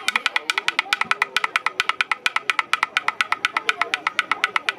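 Wadaiko percussion in performance: a fast, very even run of sharp, high, ringing strikes, about ten a second, with no deep drum beats under it.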